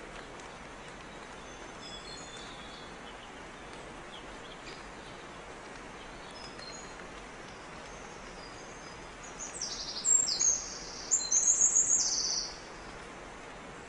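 Steady background hiss with faint scattered bird chirps, then a small bird sings loudly for about three seconds near the end in rapid, high trilled phrases.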